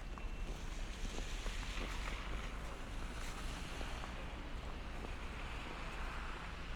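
Storm wind rushing steadily, with low rumbling buffets of wind on the microphone.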